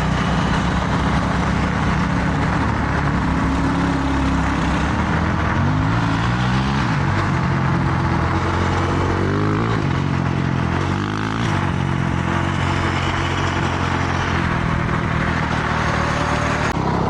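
Honda CRF450R dirt bike's single-cylinder four-stroke engine running, revving up in rising sweeps about three times, with wind rushing over the microphone.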